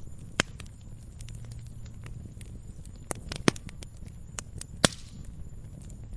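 Campfire crackling: irregular sharp pops and snaps of burning wood, a few louder pops standing out, over a low steady rumble of the flames.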